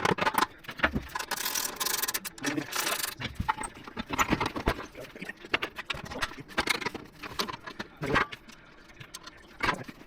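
Metal exhaust pipework clanking, rattling and scraping as it is worked into place under the car: a string of irregular knocks and jingles.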